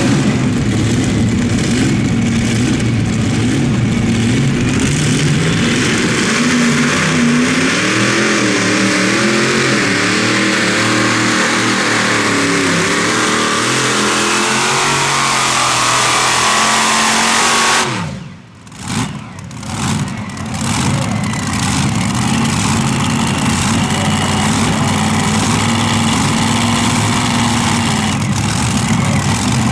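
Pulling tractor's engine running flat out under heavy load down the track, its pitch wavering as the load changes. About 18 seconds in the sound drops away sharply for a moment, then steady engine noise returns.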